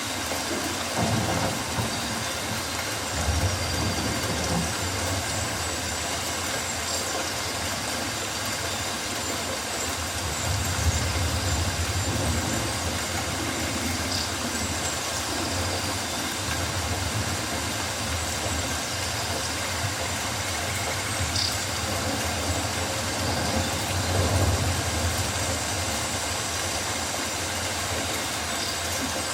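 Rainforest ambience: an even, steady hiss with a low rumble that swells and fades every few seconds, and a few short high chirps scattered through.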